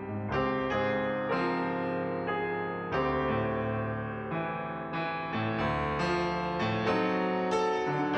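Background piano music: slow chords, each struck and left to ring and fade.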